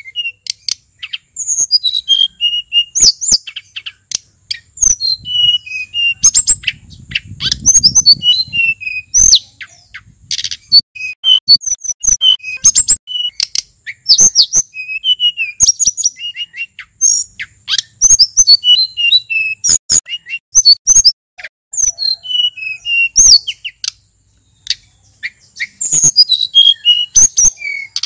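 Male sulingan gunung songbird singing a fast, varied series of high chirps and short whistled phrases that swoop up and down, almost without break, pausing briefly about three-quarters of the way through.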